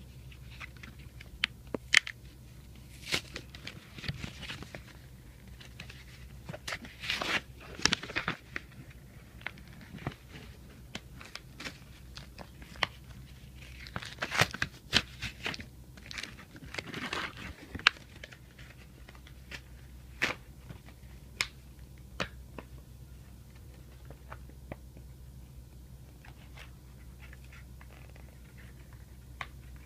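Plastic blister packaging being pried and torn open by hand: scattered sharp clicks, cracks and crinkles, with denser crackling about seven seconds in and again around fifteen seconds.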